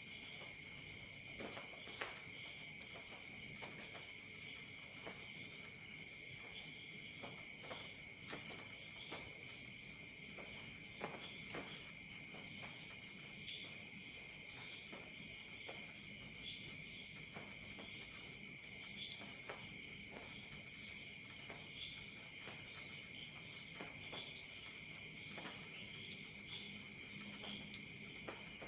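Crickets chirping: several insects at different pitches, one high chirp repeating evenly, others trilling on and off. Sparse faint pops from a crackling campfire are mixed underneath.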